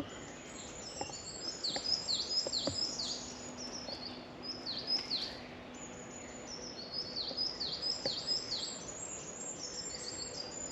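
Songbirds singing: runs of quick, high chirps that sweep downward, repeated again and again.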